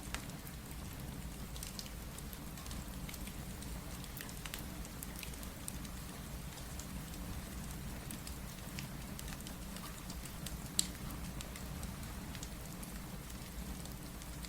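Steady rain mixed with a crackling fireplace: a constant low rumble and hiss, dotted with small sharp crackles, and one louder pop about eleven seconds in.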